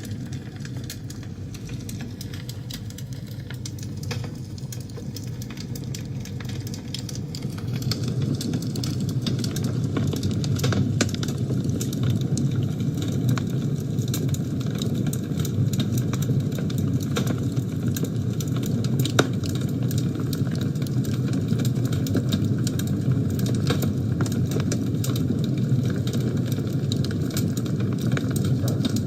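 Wood fire burning in a fireplace: a steady low roar of flame with frequent sharp crackles and pops, growing louder about a quarter of the way in.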